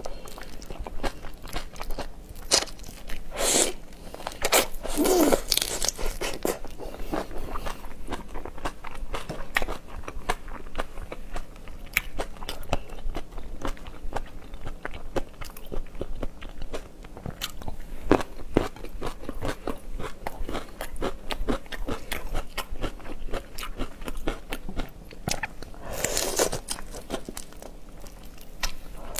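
A person eating seafood up close: crunching, biting and chewing, made of many quick sharp clicks, with a few louder, longer sounds a few seconds in and again near the end.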